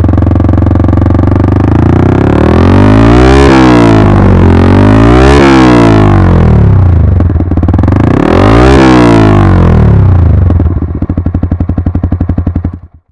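Yamaha R15 V3's 155 cc single-cylinder engine through an aftermarket exhaust, idling and then blipped three times, each rev rising and falling back, before it settles into an uneven, popping idle and cuts off suddenly near the end.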